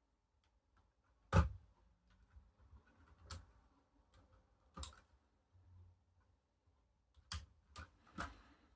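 A Lego model being handled: six sharp clicks and knocks, irregularly spaced, the first the loudest.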